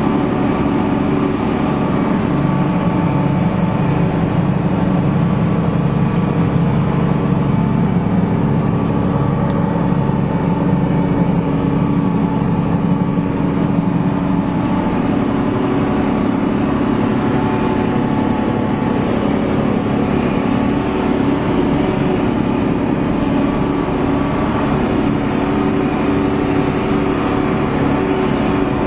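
Heavy farm machinery's diesel engine running steadily under harvest work, with a constant layered drone and no breaks.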